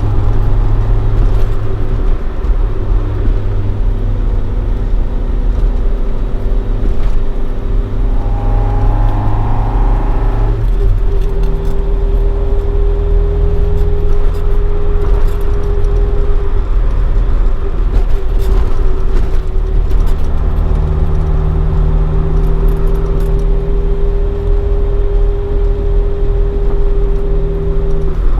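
Toyota AE86 Sprinter Trueno running on its swapped AE111 20-valve four-cylinder with four individual throttle bodies and a Fujitsubo Legalis R exhaust, cruising at steady revs. The engine note rises a little about eight seconds in, changes about ten seconds in, then holds steady.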